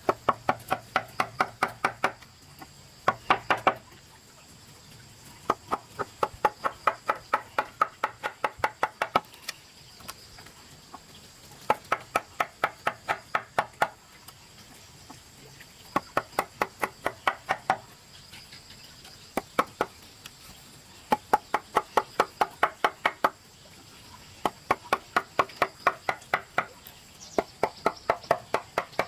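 A hand tool striking over and over in quick runs of about ten blows, roughly five a second, each blow with a short ring, broken by pauses of a second or two.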